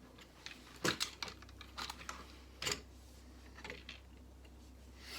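Plastic Lego pieces clicking and tapping together as they are handled and tried in place: several sharp clicks in the first three seconds, then a few fainter ones.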